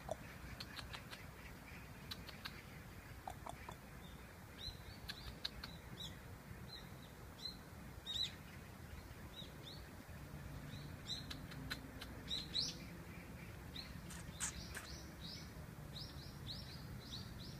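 Small birds chirping: many short, high chirps repeated on and off, over a faint low hum.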